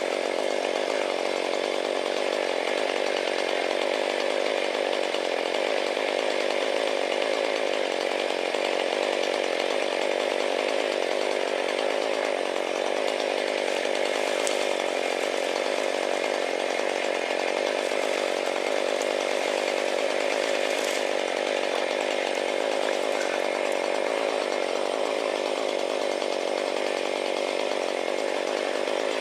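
Chainsaw running at a steady pitch, cutting firewood, with no pauses or changes in revs.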